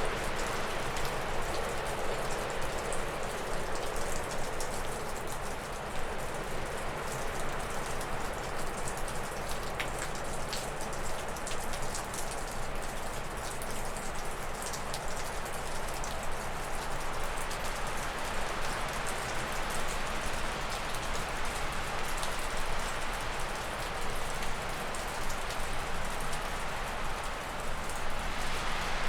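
Gusting wind rushing through spruce and birch trees, swelling and easing in waves, with scattered drips of snowmelt falling off a roof.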